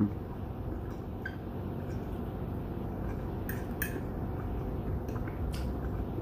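A few light clicks of cutlery against a dish, two close together past the middle and one more near the end, over a steady low background noise.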